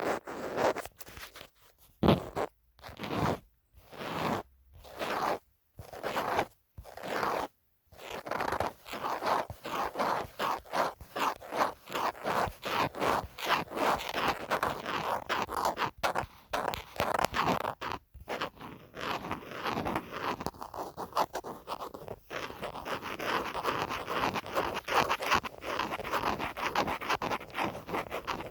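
Close-up scratching on a phone case. It starts as slow separate strokes with short pauses in between, then from about eight seconds in turns to fast, continuous scratching of many quick strokes a second.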